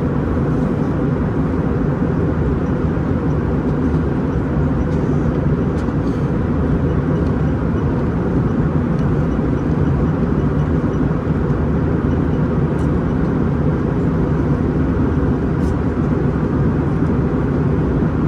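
Steady low rumble of engines and airflow heard inside the cabin of an Airbus A321-211 airliner.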